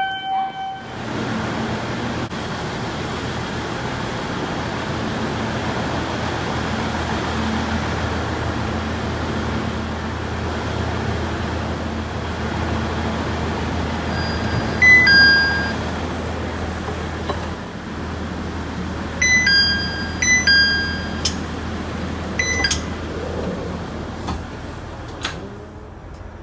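Diesel railcar running steadily with a low engine hum. A short chime sounds at the very start, and several short high electronic beeps and chime tones come about halfway through and again a few seconds later.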